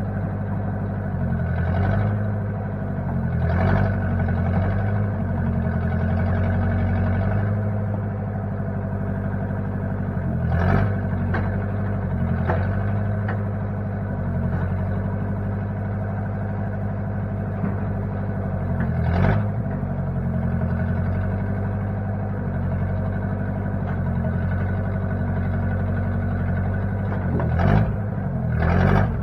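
1960 Case 540 backhoe's engine running steadily, its speed dipping and picking up again several times as the machine is worked, with a few short clunks, the strongest near the end.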